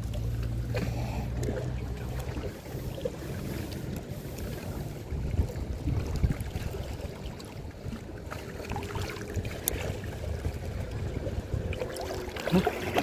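Low steady hum of a boat motor that stops about two and a half seconds in, followed by wind and water noise with a few scattered small knocks.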